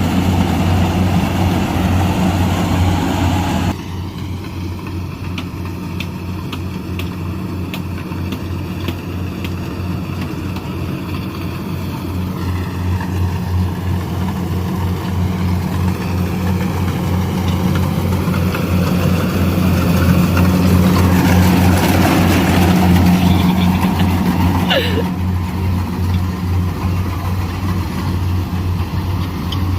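Heavy farm diesel engine running steadily at low speed with an even, pulsing beat, getting somewhat louder through the middle. The sound changes abruptly about four seconds in.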